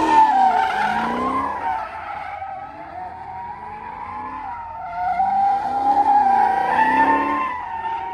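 Car tires squealing as a car spins and slides at a car meet, with the engine revving underneath. The squeal swells loud twice, at the start and again about five seconds in.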